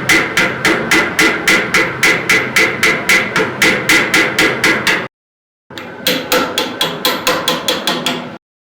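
Blacksmith's hammer striking hot steel on the anvil in a rapid, even rhythm of about four ringing blows a second, driving the metal down to shape a forged skull's features. The blows stop abruptly about five seconds in, then a second, slightly faster run follows.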